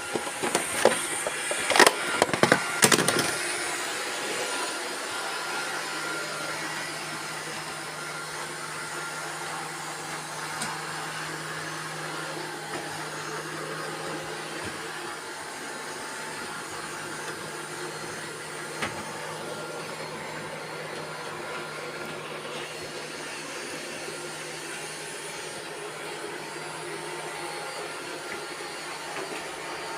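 Robot vacuum cleaners running with a steady motor hum. A burst of loud knocks and clatter comes in the first three seconds.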